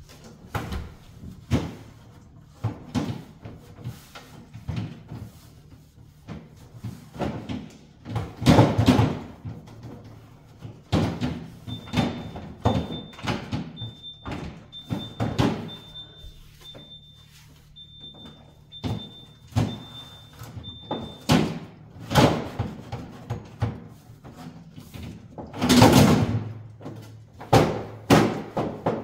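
Freezer cleaning: repeated knocks and thumps of a freezer door, drawers and containers being handled, the loudest about nine seconds in and again near the end. In the middle a high electronic beep sounds about once a second for several seconds, the freezer's door-open alarm.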